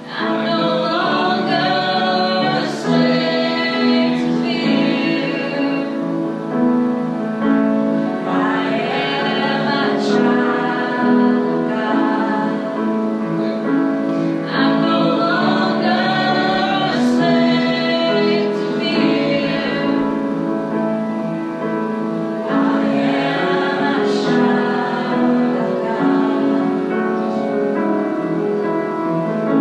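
A live congregational worship song, led by a woman's voice with a group singing along over sustained instrumental accompaniment. The singing comes in several phrases a few seconds long, with held notes between them.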